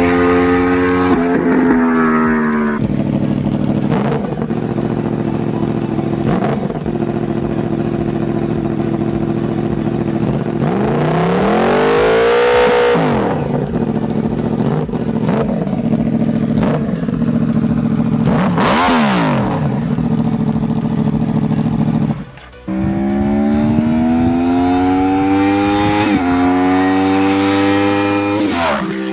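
Superbike engines and exhausts running and revving, in several edited clips. Throttle blips sweep the pitch up and back down twice midway. After an abrupt cut a little past two-thirds of the way in, a run of rising revs follows.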